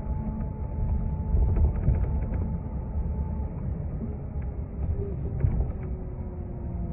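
Inside a moving city transit bus: a steady low rumble of engine and road noise, with scattered light rattles. A faint whine falls slowly in pitch in the second half.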